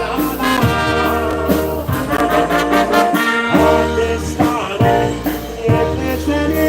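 Live polka band playing a Polish waltz, with brass horns carrying the melody over a steady bass pulse.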